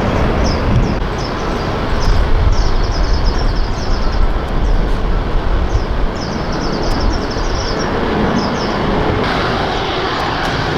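Low rumble of a jet aircraft's engines from across the airfield. It is strongest a couple of seconds in and eases after about six seconds. Repeated short, high chirps sound over it.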